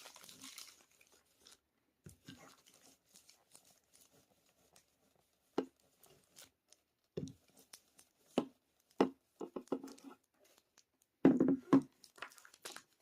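A household iron being pressed and moved over parchment paper laid on fused perler beads: scattered paper crinkles and light knocks, busiest near the end.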